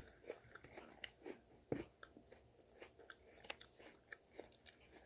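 Faint, irregular crunches of a person chewing a crisp Honeycrisp apple slice, a few a second.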